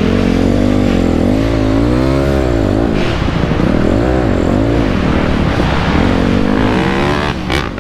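2008 Honda CRF250R's single-cylinder four-stroke engine revving up and down repeatedly under throttle as the dirt bike is ridden around a motocross track, its pitch climbing and dropping every second or so. Loudness dips briefly near the end.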